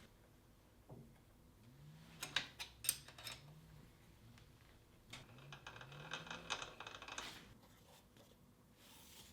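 Light clicking and tapping in two short clusters, the second with a slight ringing.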